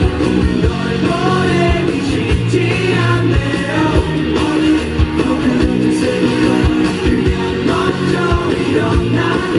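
Live pop-rock band playing, with electric guitar over drums keeping a steady beat, and some singing.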